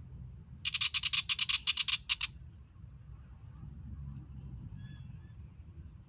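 Willie wagtail giving its harsh chattering rattle: a burst of rapid, evenly spaced notes lasting about a second and a half, starting just under a second in. Faint chirps from other birds sound behind it.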